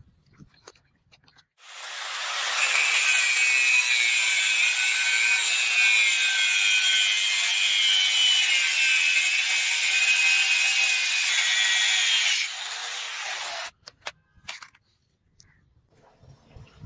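A small power tool working on material: a steady hissing rasp with a faint wavering whine, starting after a second and a half, running about twelve seconds, dropping in level shortly before it cuts off.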